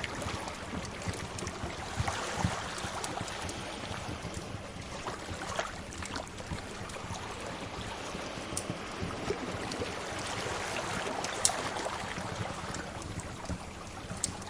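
Sea waves washing in, the surf swelling and easing in slow surges, with a few sharp pops of a crackling wood fire near the end.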